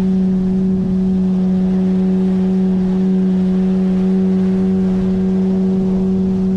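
9.8 hp outboard motor running at a steady cruising speed, an even drone that holds one pitch throughout.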